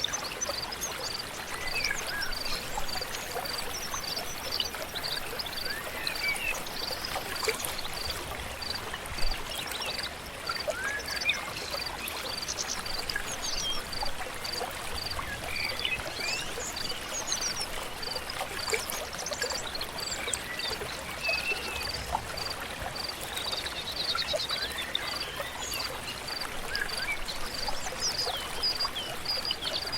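A river flowing steadily, with birds chirping and singing here and there. Throughout, a short high note repeats evenly, about two to three times a second.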